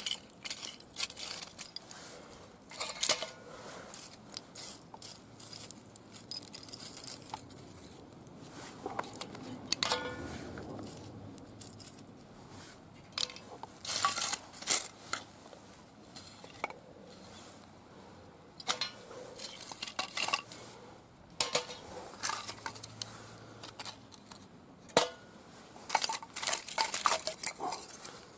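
Irregular metallic clinks and knocks, scattered through the stretch with quieter gaps between them.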